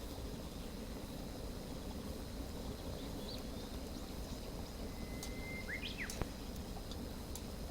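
Outdoor campfire ambience: a steady low rumble with a few faint, scattered crackling clicks from the fire. A short bird call comes about five and a half seconds in, followed by one sharp snap.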